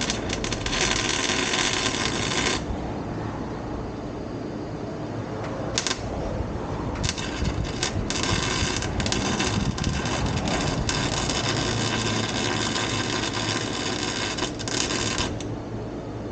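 Arc welder crackling and sizzling in bursts: one weld of about two and a half seconds, a brief tack near six seconds in, then a longer bead of about eight seconds, each starting and stopping abruptly, over a steady low hum.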